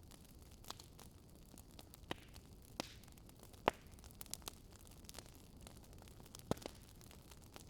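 Wood fire crackling in a fireplace: a low steady hiss with scattered sharp pops and snaps, the loudest about halfway through.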